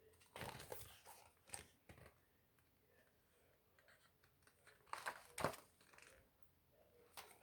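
Soft paper rustling and scraping in a few short bursts, the loudest cluster about five seconds in, as pages of a picture book are handled and turned.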